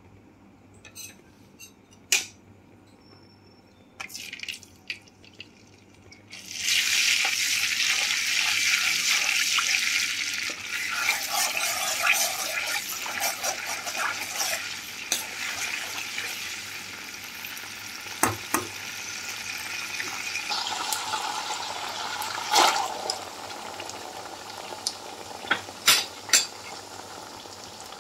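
Ginger-garlic paste hitting hot oil in a pan of whole spices, sizzling loudly from about six seconds in, then easing as a metal spoon stirs it. The spoon clinks and scrapes against the pan throughout, with a few sharper knocks near the end.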